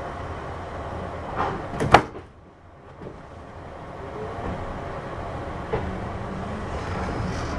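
Kintetsu 6200 series train doors sliding shut and closing with two sharp knocks about two seconds in, after which the cabin goes quieter. The train then starts off, its traction motors beginning a faint rising whine as it gathers speed.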